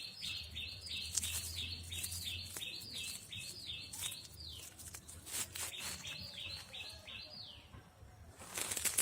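A small bird calling a fast series of short, high, repeated notes, about three a second, pausing, then a shorter run that ends in a falling slur. Rustling noise comes and goes, loudest near the end.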